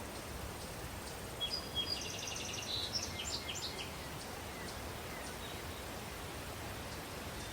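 A small songbird's burst of quick, high chirps and trills, starting about a second and a half in and lasting a couple of seconds, over a steady outdoor hiss.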